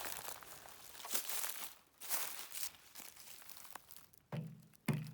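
Footsteps crunching on the ground: irregular crunches from someone walking. Two short low-pitched sounds come near the end.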